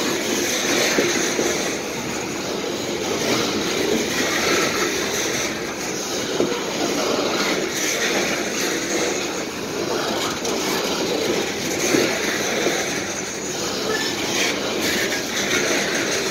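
Freight train's coal hopper cars rolling past close by: a steady rumble and rattle of steel wheels on rail, with occasional clicks from the wheels.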